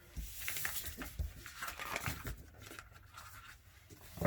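A deck of Moonology oracle cards being handled and shuffled: papery rustling and sliding with small knocks, then a sharp tap near the end.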